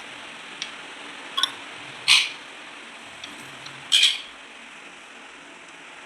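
Sun conure giving three short, shrill squawks, the second and third louder than the first, over a steady background hiss.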